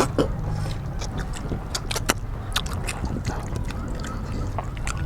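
People eating rice and curry: irregular sharp clicks and smacks of chewing and handling the food, over a steady low hum.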